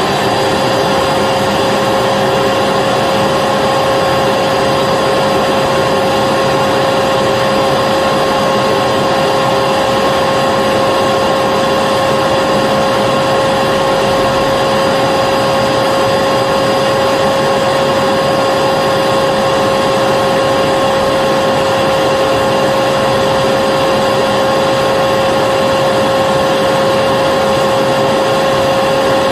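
Vacuum cleaner running steadily at full speed: a constant motor whine over a rushing hiss of air.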